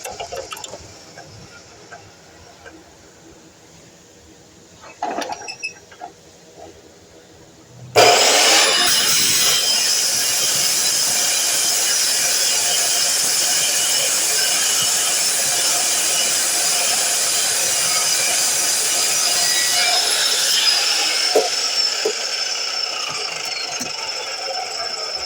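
DeWalt miter saw starting abruptly about eight seconds in and running loud with a high whine through most of the rest, cutting material. A few light knocks come before it starts.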